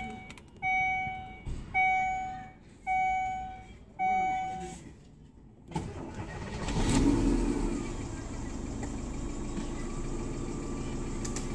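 A car's warning chime sounds five times about a second apart, then the Daewoo Lanos 1.6 four-cylinder petrol engine cranks and starts about six seconds in, revs briefly and settles into a steady idle.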